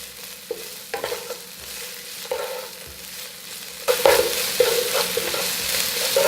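Chopped onion and garlic sizzling in hot olive oil in a pan, stirred with a utensil that knocks against the pan now and then. The sizzle grows louder about four seconds in.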